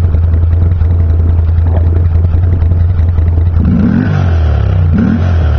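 Can-Am Renegade 800 HO ATV's V-twin idling through custom equal-length headers, an X-pipe and twin GSXR mufflers, then revved up and back down twice in quick blips about two thirds of the way in.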